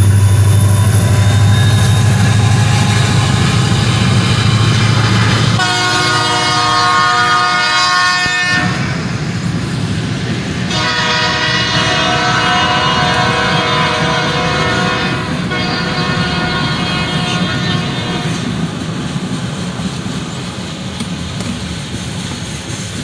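Diesel-hauled freight train passing a grade crossing: a heavy low locomotive engine rumble for the first few seconds, then freight cars rolling by. A distant train horn sounds twice, about three seconds from six seconds in and again for several seconds from about eleven seconds in, while the passing noise slowly fades.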